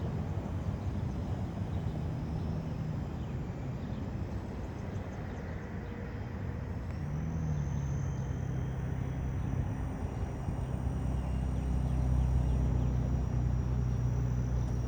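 Small electric RC toy helicopter in flight: a steady rotor hum with a thin, high motor whine, both rising in pitch about halfway through as the throttle is raised, and growing louder toward the end.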